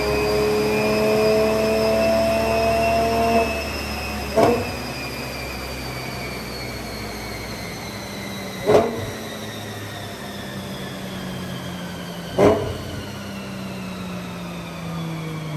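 Porsche GT4 Clubsport race car's flat-six running on a chassis dyno. It is held at a steady speed, then backs off at about three and a half seconds while a whine slowly falls in pitch as the rollers wind down. Three short, sharp blips come about four seconds apart.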